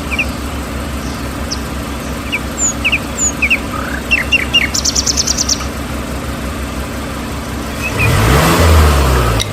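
Small birds chirping in short, repeated high calls over a steady low motor hum. About eight seconds in, a louder motor sound swells, its pitch sliding down, then drops away.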